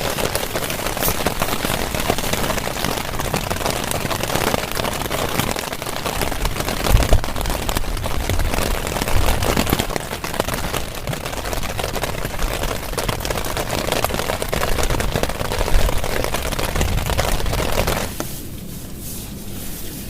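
Heavy rain pouring steadily, a dense even hiss with a few low thuds mixed in. About two seconds before the end the rain noise drops off sharply and becomes much quieter.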